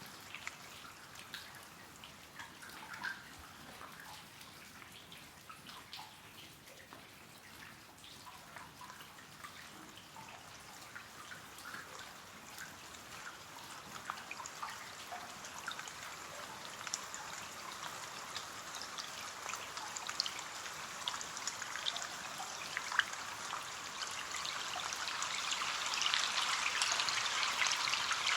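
Rain falling on window glass: a steady hiss with many separate drops ticking, growing heavier and louder through the second half.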